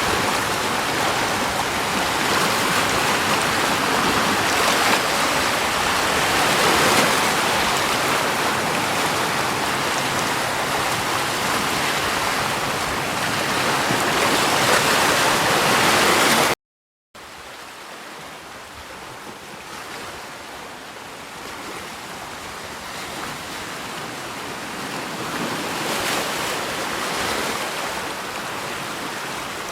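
Steady rushing water. It cuts out for about half a second a little past the middle, then comes back quieter and slowly grows louder.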